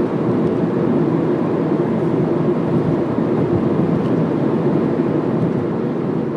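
Steady vehicle noise, an even low rush with no distinct beats or horn, easing slightly near the end.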